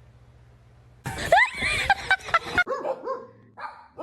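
A dog barking and yipping, starting about a second in: a loud noisy stretch of rising and falling calls, then a run of shorter calls.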